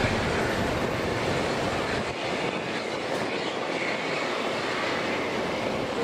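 A train running through the station, heard as a steady rumbling noise without distinct beats or squeal.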